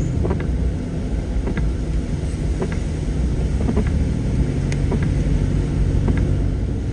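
Steady road and engine rumble heard inside a moving car, with a few faint, irregular light ticks over it.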